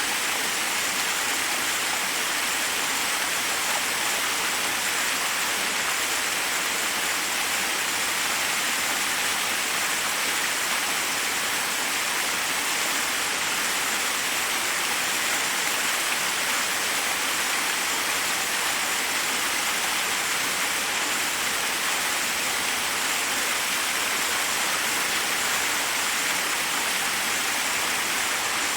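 Forest waterfall: a steady, even rush of water falling over rocks.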